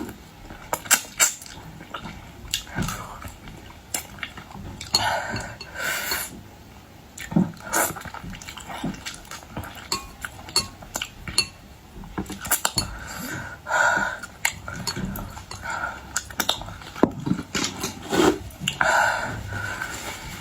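Close-up eating of boiled shellfish: irregular sharp clicks and cracks of shells and utensils, with dishes clinking and short mouth noises in between.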